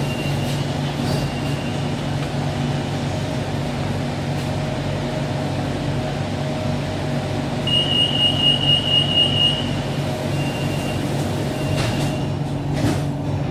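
BTS Skytrain car standing at a station, its equipment giving a steady hum. A rapid, high-pitched beeping sounds for about two seconds past the middle, and two short knocks come near the end.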